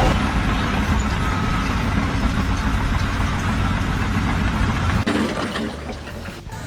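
An engine running steadily, with a low rumble that weakens about five seconds in.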